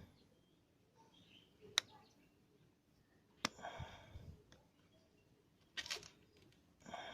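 A few sharp clicks or knocks of tools being handled, two of them distinct, each followed by a brief rough scraping or rustling, as work goes on during a tubeless tyre plug repair.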